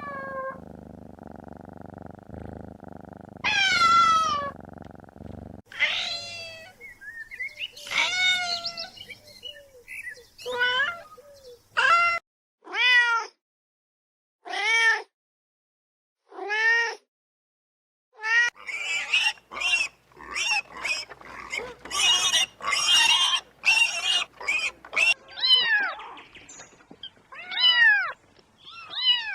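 Cats meowing again and again, each call falling in pitch. Single meows come about every two seconds with gaps between them, then a faster run of overlapping mews follows, with a low hum underneath for the first few seconds.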